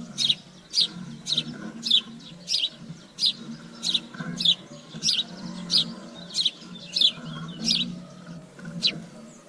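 A bird calling over and over, a series of short, high chirps that each sweep downward, a little under two a second, over a steady low hum.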